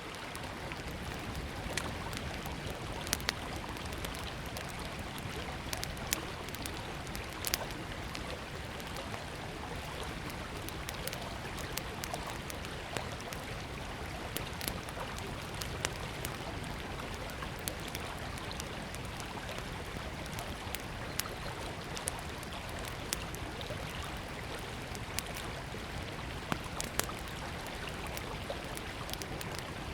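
Small wood campfire crackling, with frequent sharp pops and snaps, over the steady rush of a flowing river.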